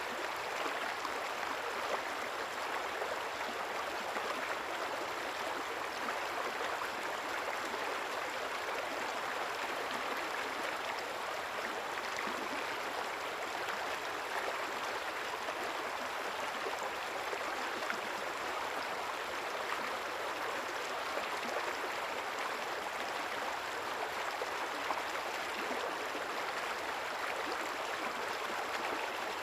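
A river's water flowing steadily, a continuous even rush.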